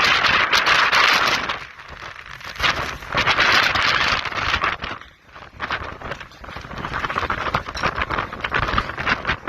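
Strong gusting wind with wind noise on the microphone, coming and going in gusts, with brief lulls about 2 and 5 seconds in.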